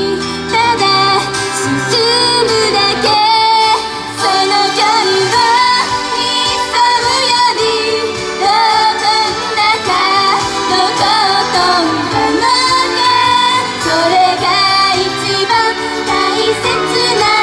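Female idol singers singing a Japanese pop song over full band backing music, the melody continuing without a break.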